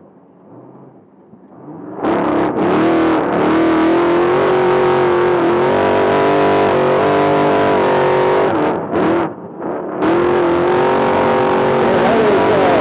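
Off-road race trophy truck engine running hard at high revs, cutting in suddenly about two seconds in. Its pitch stays mostly steady with slight wavering, drops away briefly about two-thirds of the way through, then comes back.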